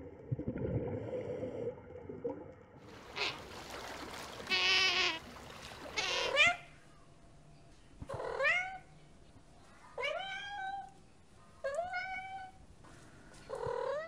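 Tabby cat meowing four times, about every two seconds, each meow rising and then falling in pitch. Before the meows there is a low rumble, then a few loud noisy bursts.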